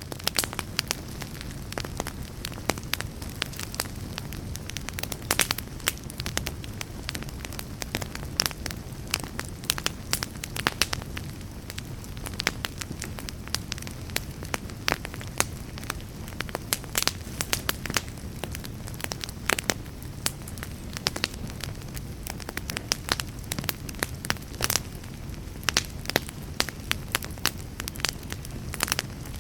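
Fire in a fireplace crackling, with many sharp, irregular pops over a low, steady rush of flames.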